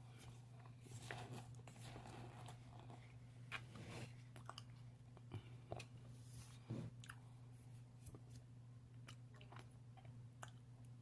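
A person chewing something crunchy close to the microphone: soft, irregular crunches and clicks over a steady low hum.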